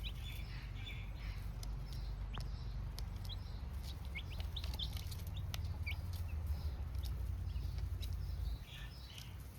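Baby chicks cheeping in short, high peeps, with scattered light clicks, over a low steady rumble that drops away near the end.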